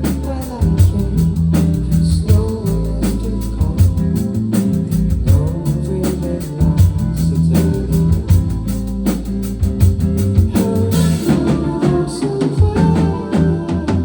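Band playing a song: drum kit keeping a steady beat under bass and guitar, with some singing.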